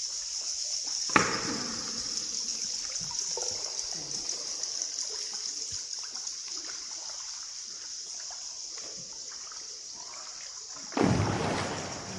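Water trickling and splashing inside the river cave, with a sharp splash about a second in that rings on, and a louder rushing splash near the end.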